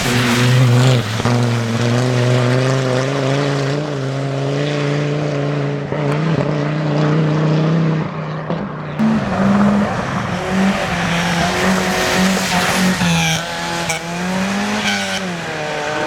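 Rally car engine running hard on a tarmac stage. Its note holds fairly steady for the first half, then jumps up about nine seconds in and rises and falls with throttle and gear changes near the end.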